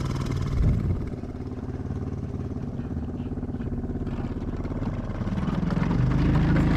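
A small boat motor running steadily, picking up speed about five seconds in.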